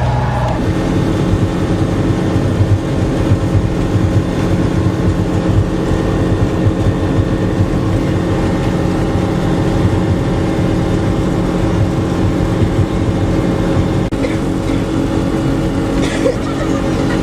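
Speedboat's outboard engine running steadily under way, heard on board, with the rush of the hull through the water beneath it. The engine note shifts about half a second in, then holds steady.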